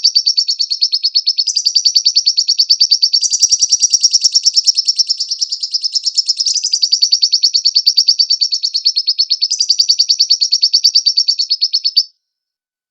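Lovebird song: a loud, fast, unbroken high chattering trill that shifts pitch in sections every couple of seconds and cuts off suddenly about twelve seconds in.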